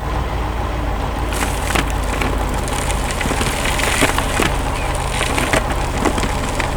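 Heavy excavator engine running under a dense crackle of wood cracking and splintering, with many sharp snaps throughout.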